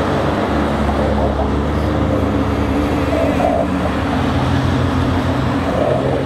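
Tow trucks in procession driving past, their engines running under a steady wash of road and tyre noise.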